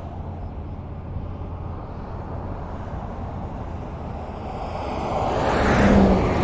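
Highway traffic with a steady low road rumble. One vehicle swells up and passes close by, loudest about six seconds in, with a short engine drone as it passes.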